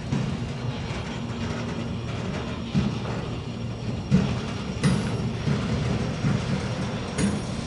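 Freight train of autorack cars rolling past at close range: a steady rumble of wheels on rail. Four sharp knocks stand out, the loudest about four seconds in.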